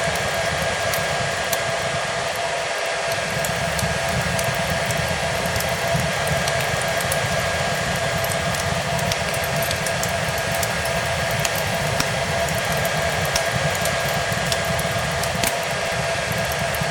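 Hair dryer running steadily, a constant whine over its rushing airflow, mixed with the scattered sharp crackles of a wood fire.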